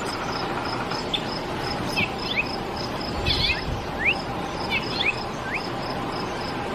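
Recording of a house finch giving short, quick rising and falling chirps, spaced irregularly. A steady high pulse repeats about three times a second behind it, over constant background hiss.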